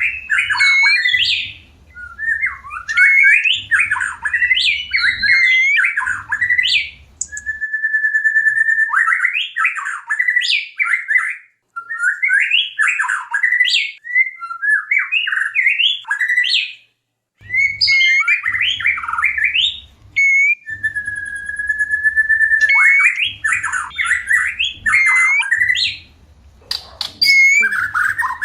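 White-rumped shama singing in breeding condition: quick, varied phrases of whistles and chatter, broken twice by a long, steady whistle and twice by a brief pause.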